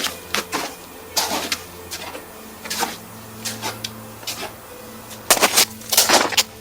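Footsteps crunching in old spring snow, a crunch every half second or so at an irregular walking pace, with a steady low hum underneath.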